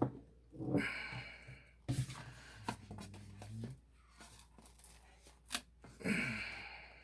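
Hands handling the cardboard and plastic packaging of a trading-card collection box: a few short bursts of rustling and crinkling, with a couple of sharp clicks.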